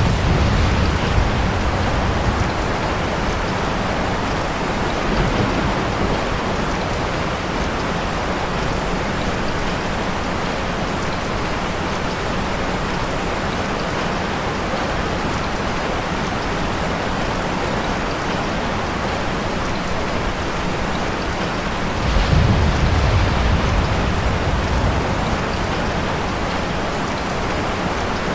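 Steady rain falling, with low rolls of thunder rumbling in twice: briefly right at the start, and for about three seconds near three quarters of the way through.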